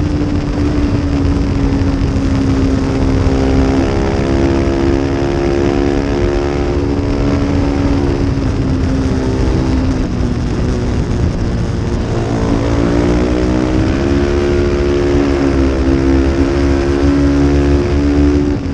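Small-displacement race motorcycle engine running at a fairly steady speed under a heavy low rumble. Its pitch sags a little partway through, then dips and climbs back up about two-thirds of the way in, as the throttle is eased and opened again.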